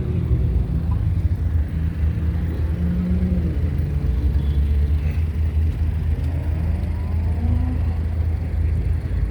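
Car engine idling nearby, a steady low rumble.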